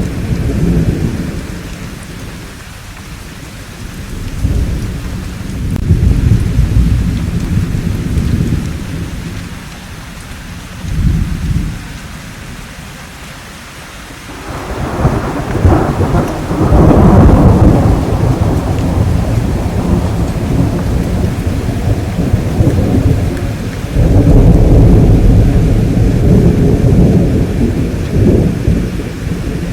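Steady rain with rolling thunder: low rumbles swell and fade several times, with the longest, loudest peal starting about halfway through and rolling on for several seconds, and another heavy rumble near the end.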